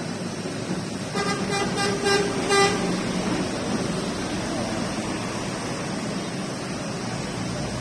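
A vehicle horn gives about four short toots in quick succession, over a steady hiss of rain.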